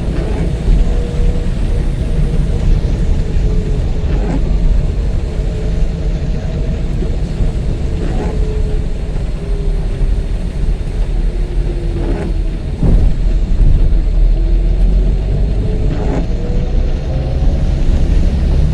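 Steady road and engine rumble heard inside a moving car, with an engine note that wavers up and down. A short sound repeats about every four seconds.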